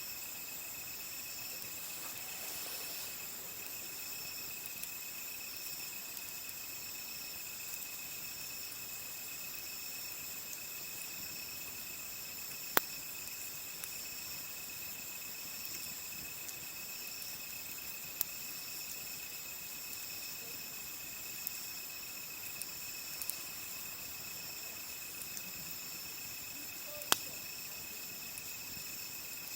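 Crickets and other insects trilling steadily at several high pitches, with a few sharp pops from a wood campfire, the loudest about a third of the way in, again past halfway, and near the end.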